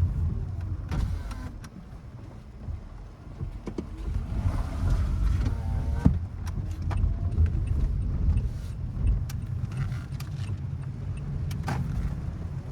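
Car cabin noise while driving: a steady low road and engine rumble with scattered light clicks and ticks.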